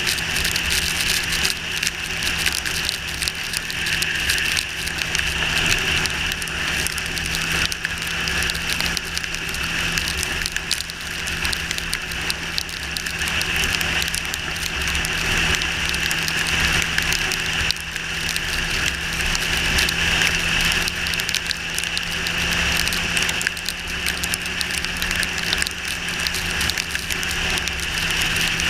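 Yamaha R6's inline-four engine running at a steady cruise in the rain, under a constant rush of wind and wet-road noise.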